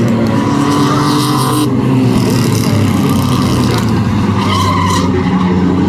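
Race trucks' engines running hard together on a short oval track, a loud steady engine sound whose pitch shifts slightly as the trucks pass through the turns.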